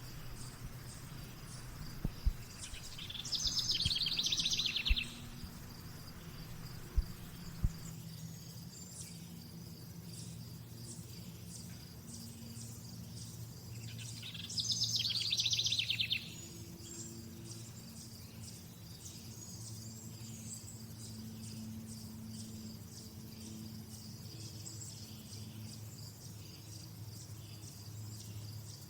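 Nature ambience: a bird sings a dense, fast trill of about two seconds twice, roughly ten seconds apart, over an insect's steady, high, rapidly pulsing chirp. A few sharp clicks sound in the first several seconds.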